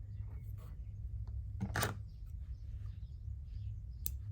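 Two sharp clicks about two seconds apart as embroidery tools and thread are handled, over a steady low hum.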